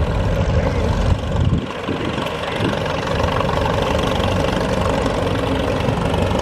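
Tractor engines running steadily, a deep low rumble that dips briefly about a second and a half in.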